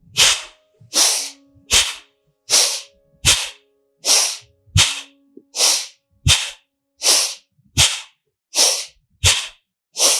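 Bhastrika bellows breathing: forceful sniffing breaths in and out through the nose, in an even rhythm of about one full in-and-out breath every second and a half, each stroke a short loud rush of air.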